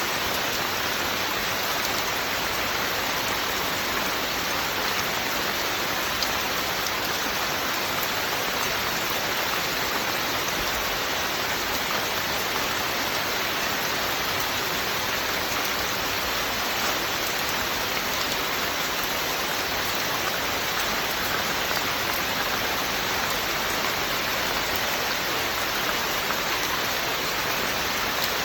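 Steady rain falling and pattering on surfaces, an even hiss of drops with no change in strength.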